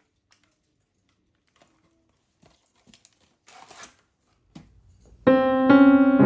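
Faint light clicks and a brief rustle from something being handled, then piano music starts a little over five seconds in, clear sustained notes much louder than anything before.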